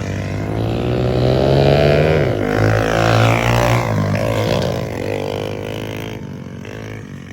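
A pit bike's small engine revving as it rides past. The pitch rises and falls with the throttle and gear changes, it is loudest around two to three seconds in, and it fades as the bike pulls away.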